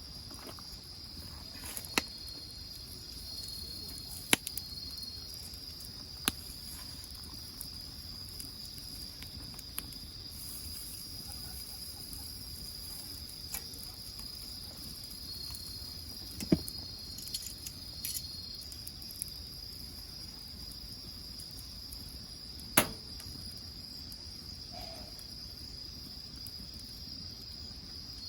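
Crickets chirring steadily and high-pitched, with a second insect's short trills coming and going. A wood fire gives a few sharp pops and crackles, the loudest about 16 and 23 seconds in.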